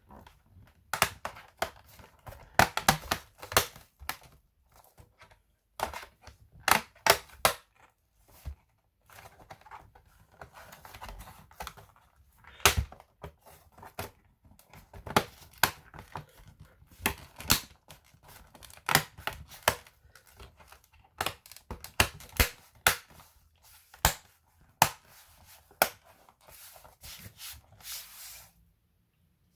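Irregular sharp plastic clicks, snaps and taps from hands handling and working on a laptop, some in quick clusters, with faint rubbing between them.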